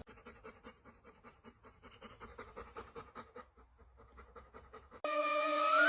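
A dog panting faintly and quickly, about four or five breaths a second. Music starts about five seconds in.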